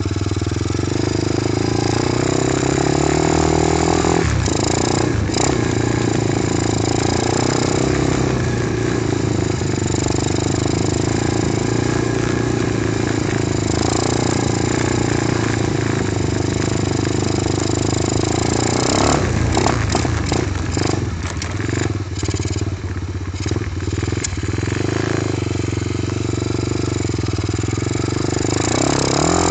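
Apollo dirt bike engine idling steadily, warming up after a cold start on choke. Its pitch rises slightly about three seconds in, and a run of knocks and rustling comes about two-thirds of the way through.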